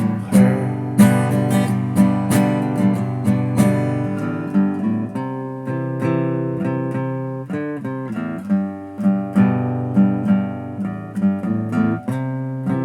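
Acoustic guitar played in an instrumental folk passage: chords strummed and picked in a steady rhythm, each ringing on into the next.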